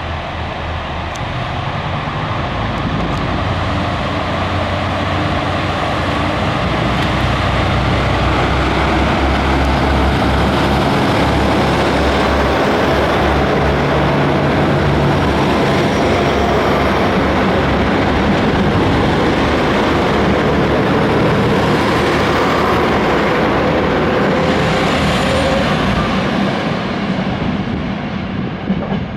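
Train moving along the station platform: a loud, continuous running noise with a low steady drone, building over the first several seconds and easing off near the end.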